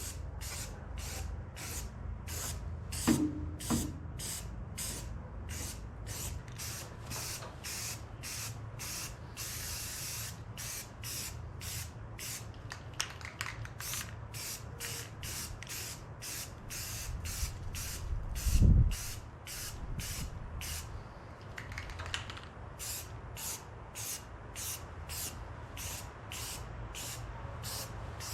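Aerosol spray-can primer hissing in short, evenly repeated bursts, about one and a half a second, over a low steady hum. A couple of knocks come a few seconds in, and a louder low thud comes about two-thirds of the way through.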